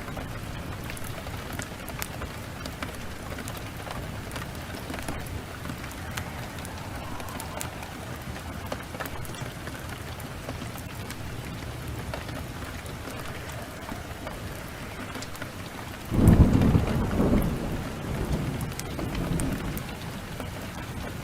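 Steady downpour of rain with scattered small crackles, then about sixteen seconds in a loud clap of thunder that rolls on in a second, lower rumble for several seconds before fading.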